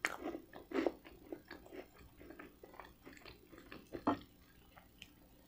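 Close-miked chewing of a mouthful of extra-toasted garlic bread: soft, scattered mouth clicks and small crunches, busiest in the first second. About four seconds in there is one louder knock as a piece of bread is set down on the ceramic plate.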